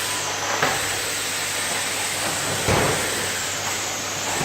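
Vacuum cleaner running with a steady hiss and low hum, with a brief knock near the start and a louder thump a little past halfway.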